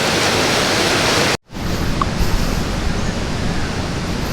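Rushing water of a swollen, fast-flowing stream in rainy-season flood, a loud steady rush of noise. About a second and a half in it cuts off abruptly and gives way to a quieter, duller rush with low rumbling.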